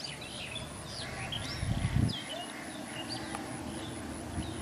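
Small birds chirping with many short, quick, falling calls, and a low rumble about two seconds in that is the loudest sound.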